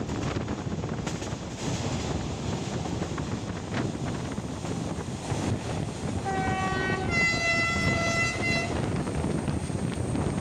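A train running with a steady rolling rumble and rush of air. About six seconds in, the locomotive's horn sounds two notes: a short lower note, then a longer, louder higher one.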